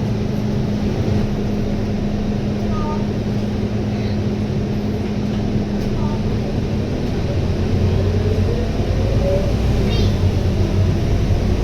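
Scania K230UB bus with its 9.3-litre Scania DC9 diesel running, heard from the front of the bus. A steady drone fades about seven seconds in, then the engine note grows louder and a rising whine sets in as the bus pulls away.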